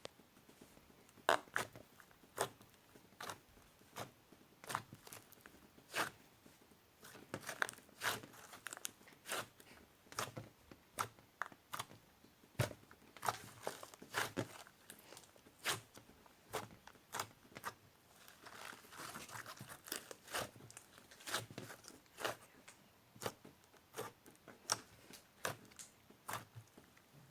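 Irregular sharp clicks and crinkling rustles, roughly one a second, from small objects being handled, with a longer stretch of rustling about two-thirds of the way through.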